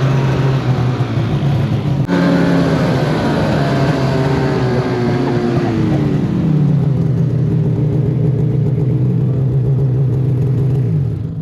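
Snowmobile engine running at a steady speed under load, with a sudden break about two seconds in, then its pitch falling off about six seconds in and settling lower.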